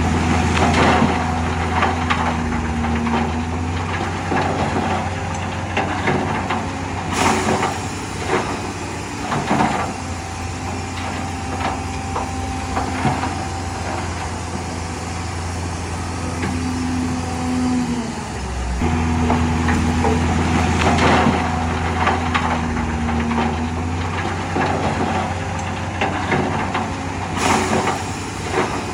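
Diesel engine of heavy earthmoving machinery running steadily under load, with a whining tone that comes and goes. The engine note dips briefly about two-thirds of the way through, and a couple of sharp metallic clanks ring out.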